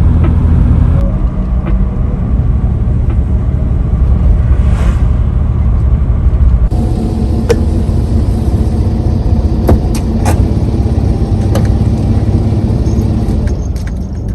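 Toyota Land Cruiser 60 on the move: steady engine and road rumble, changing abruptly about a second in and again about halfway through, with a few sharp clicks in the second half.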